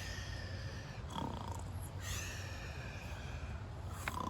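A person imitating snoring: two drawn-out, breathy snores, the second one longer, over a steady low rumble.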